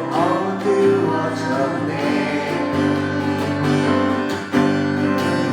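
A Korean worship song sung to acoustic guitar strumming, the singer holding a long note on one line.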